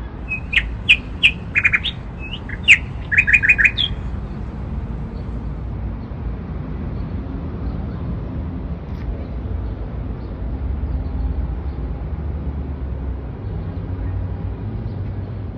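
Songbird chirping: a quick run of short, sharp notes in the first four seconds, some in fast trills, then only a steady low outdoor background noise.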